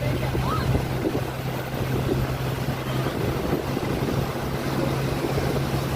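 Motorboat engine running steadily with a low hum, over rushing water and wind on the microphone.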